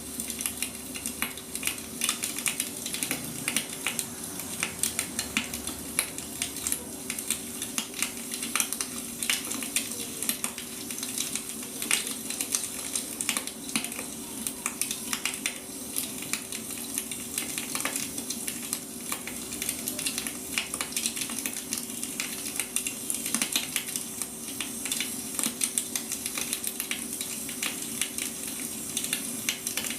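Wood fire burning, logs crackling and popping in a dense, irregular stream of small snaps, with a steady faint hum beneath.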